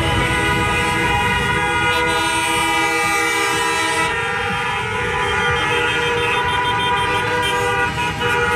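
Motorcycle horns held in long, overlapping steady tones, changing pitch every couple of seconds, over the low sound of many motorcycle engines running.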